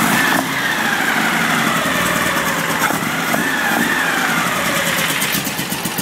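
Performance air-cooled VW flat-four engine on dual Kadron Solex H40/44EIS carburetors running just after a cold start. Its pitch falls as the revs ease down, and regular firing pulses come through near the end. It is cold and not yet running smoothly.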